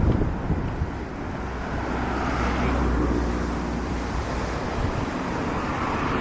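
Road traffic noise: a motor vehicle's engine running close by, a steady low hum through the middle, over a general outdoor noise.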